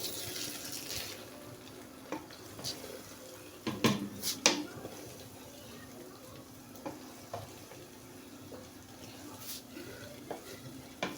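A spoon stirring fried rice in a pot, with scattered scrapes and knocks against the pot (a burst about four seconds in) over a faint steady sizzle.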